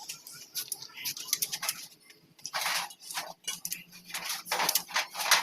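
Hand tools and engine parts clinking and scraping on metal in irregular clicks, with a few short rasping scrapes, over a steady low hum.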